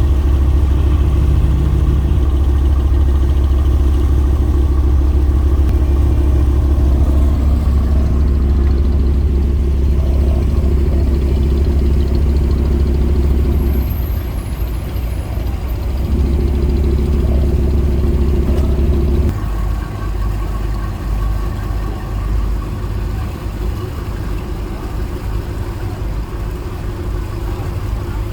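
Boat engine running steadily. It eases off about halfway through, picks up again, then settles to a lower, quieter note about two-thirds of the way in.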